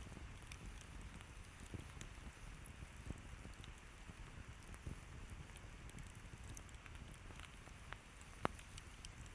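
Campfire burning quietly, with a low steady hiss and scattered small crackles and snaps, and one sharper pop near the end.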